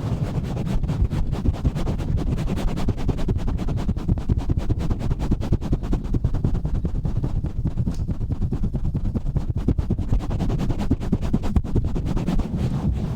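Fast, rough rubbing and scratching directly on a bare microphone: a dense, unbroken stream of quick scuffs with a heavy low rumble from handling.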